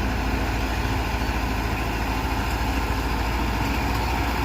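Heavy diesel engine of earthmoving machinery running steadily at an even, low speed, with a constant low rumble.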